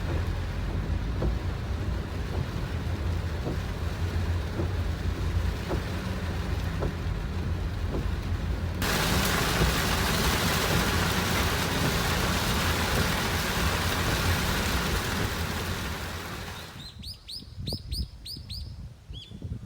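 Rain falling, with a low rumble and scattered drips for the first half; it turns abruptly heavier and louder about nine seconds in. Near the end the rain stops suddenly and a small bird calls, with a run of quick high chirps.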